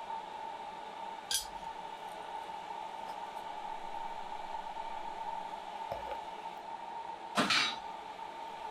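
Blacksmith's forge running with a steady hum and hiss while steel heats for forge welding, with a faint click about a second in and a brief louder clatter near the end.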